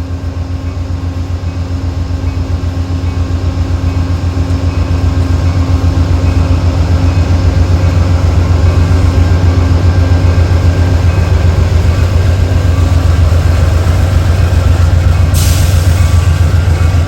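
Diesel locomotive engine running with a steady low throb, growing louder over the first several seconds as the train draws closer. There is a short hiss near the end.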